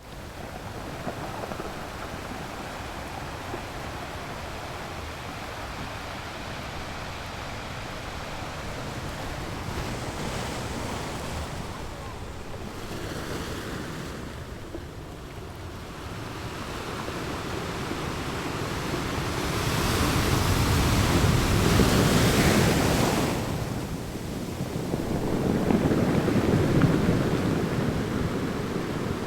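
North Sea surf breaking on a sandy beach: a steady wash of waves that swells louder about two-thirds of the way through, with two big waves crashing one after the other near the end.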